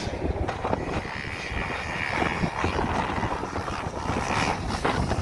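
Freestyle motocross dirt bike engine running at a distance as a rider goes over a jump, with wind rumbling on the microphone.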